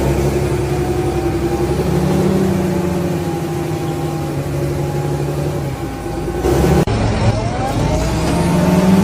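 Large tractor diesel engine running hard under load with a steady note. About two-thirds of the way through there is an abrupt break, after which the engine note rises as it revs up.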